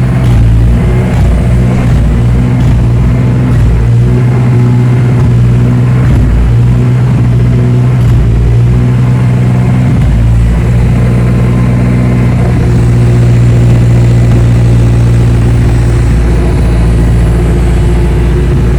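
Turbocharged Honda K24A2 2.4-litre inline-four running at a steady idle on a base ECU calibration, its pitch holding level.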